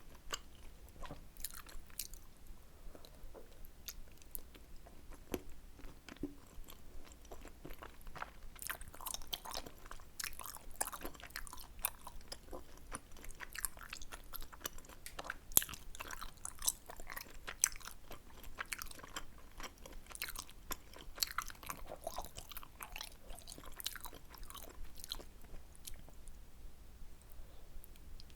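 Close-miked chewing and biting of tteokbokki: a steady run of small wet mouth clicks and squelches, busier from about eight seconds in.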